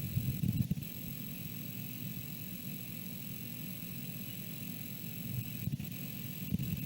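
Wind buffeting the nest camera's microphone: a low, gusty rumble that eases after the first second and picks up again near the end, over a faint steady high-pitched whine.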